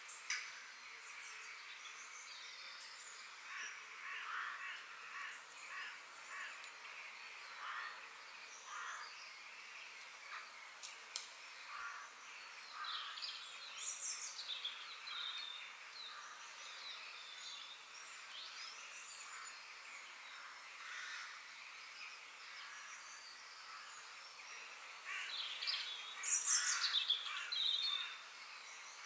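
Forest ambience: wild birds calling and chirping over a steady background hiss, with short repeated calls and a louder burst of chirps near the end.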